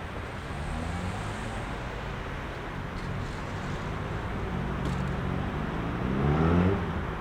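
Heavy city rush-hour road traffic: a steady drone of engines and tyres. Near the end one vehicle accelerates close by, its engine pitch rising, which is the loudest moment.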